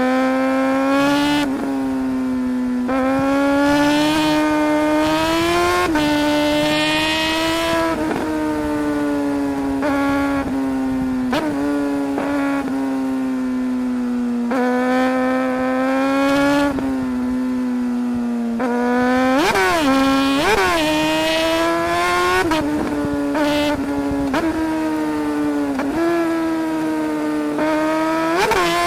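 2008 Suzuki GSR 600's inline-four engine running hard under a rider's throttle. Its pitch climbs and then drops sharply again and again with gear changes and throttle blips. There is a quick burst of rev spikes a little past the middle.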